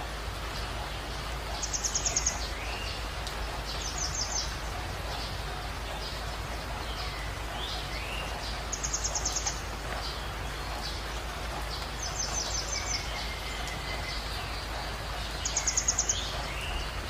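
Birds chirping: short, rapid high trills every few seconds, with rising calls between them, over a steady hiss and a low hum.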